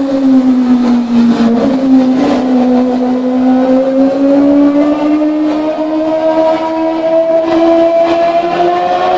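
Kawasaki ZX-25R's 250 cc inline-four, fitted with an aftermarket exhaust, running at high revs. Its pitch dips slightly about a second in, then climbs slowly through the rest.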